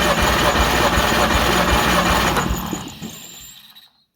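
Oliver 70 tractor's six-cylinder engine cranked over on the starter with the spark plugs out, for a compression test on cylinder number 1: a fast, steady, rhythmic churning that winds down and stops about three seconds in. The test shows about 125 psi on that cylinder.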